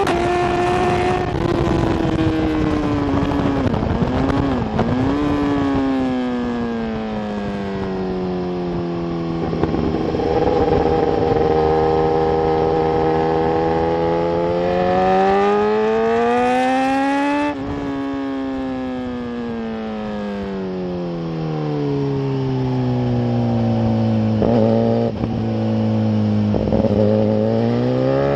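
Sport motorcycle engine heard from on board at track pace, with heavy wind noise at the start. The engine note falls as the bike slows from about 116 mph, with a few quick dips and jumps in pitch, then climbs under acceleration, drops sharply at a gear change about two-thirds of the way through, sits low and steady, and rises again near the end.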